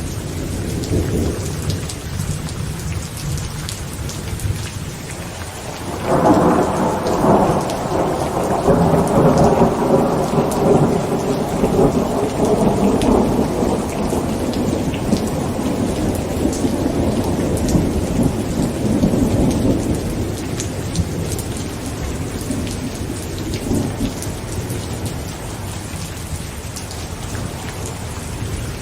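Heavy rain pattering on a tent, with a long rolling rumble of thunder that breaks out about six seconds in and slowly fades away.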